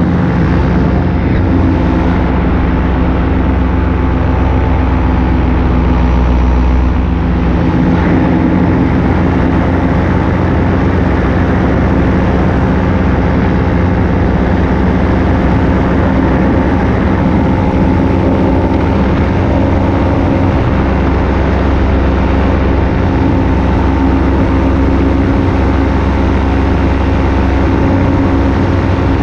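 Paramotor engine and propeller running steadily at cruise power in flight, a loud even drone with air rushing past. The engine note shifts slightly about seven seconds in.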